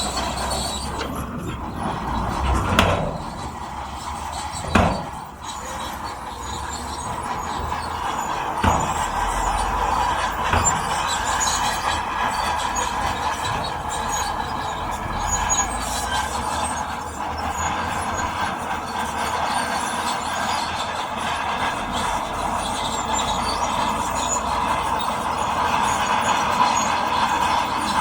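Crawler bulldozer working, its steel tracks squealing and clanking steadily over the engine, with two loud knocks about three and five seconds in.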